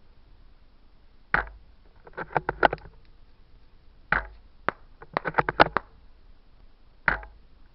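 Tokyo Marui VSR-10 spring-powered bolt-action airsoft rifle fired three times, about a second in, about four seconds in and near the end, each shot a sharp snap with a low thump. After the first two shots comes a quick run of metallic clicks as the bolt is worked to cock the spring and load the next BB.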